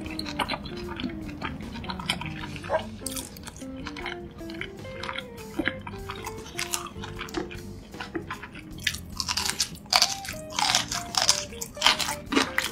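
Close-miked chewing of food, with short crunches that grow more frequent and louder in the last few seconds. Soft background music with a stepping melody runs underneath.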